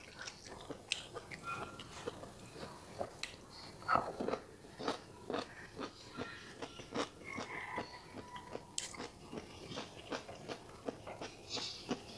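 A person chewing stir-fried chicken gizzards close to a headset microphone: irregular sharp mouth clicks, a few a second, with a louder cluster about four seconds in.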